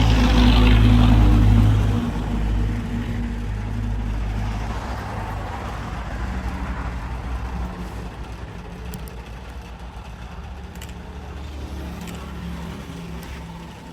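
A motor engine running close by, loudest in the first two seconds, then fading steadily away as if moving off.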